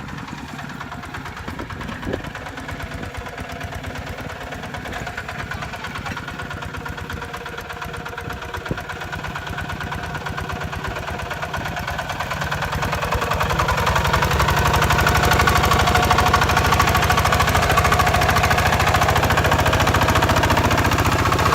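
Kubota RT140 tractor's single-cylinder diesel engine running with a steady, even chug, growing louder about two-thirds of the way through and staying there.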